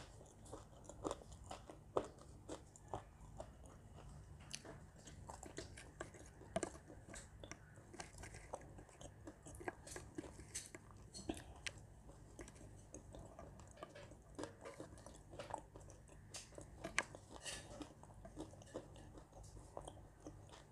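A person biting and chewing a dry, crumbly edible-clay mix, with a run of short, sharp crunches.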